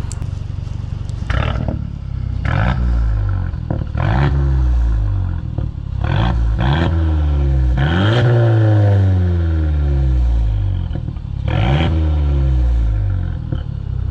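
A 2018 Mercedes-Benz CLA250's four-cylinder, straight piped with no tune, is revved from idle in about seven blips, the longest about two-thirds of the way through. Crackles and pops sound as the revs rise and fall: the small factory burbles let through by the straight pipe.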